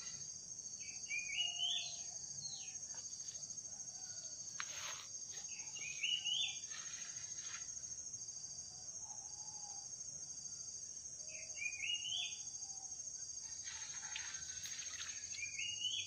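A bird repeats a short rising, stepped call four times, once every four to five seconds, over a steady high-pitched insect drone. A few short bursts of noise come in between.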